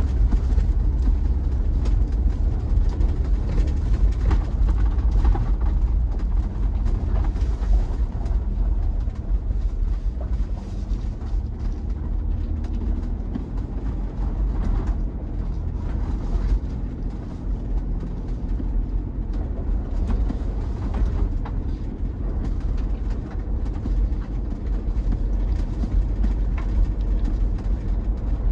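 A vehicle driving up a plowed, snowy road: a steady low rumble of engine and tyres, with scattered knocks and rattles.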